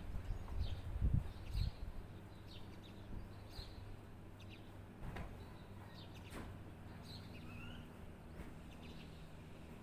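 Small birds chirping, with short high chirps repeating every half second or so and a few brief sliding notes near the end. A few low thuds come about a second in.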